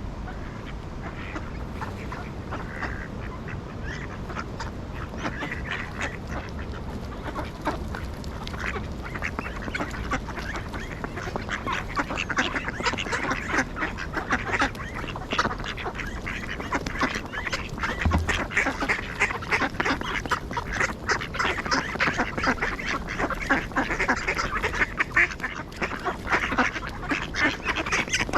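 A flock of ducks quacking, the calls sparse at first and growing thick and busy from about ten seconds in.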